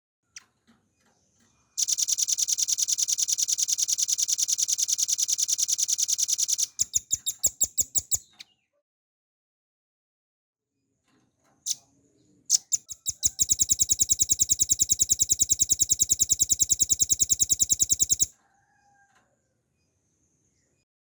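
Velvet-fronted nuthatch singing: two long, very rapid, high trills of about five seconds each, a few seconds apart. The first slows into a handful of separate notes as it ends, and the second is led in by a few single notes.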